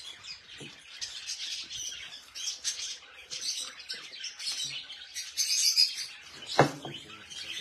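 Many caged pet birds chirping continuously, with one short thump about two-thirds of the way through.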